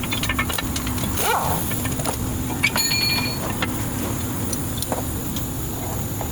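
A metal tool or part clinks once and rings briefly, over steady background noise; a short rising-and-falling squeak comes about a second in.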